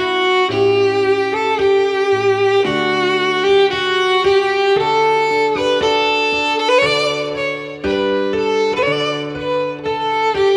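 Instrumental music: a violin plays a slow melody of held notes over a lower accompaniment with a steady bass line.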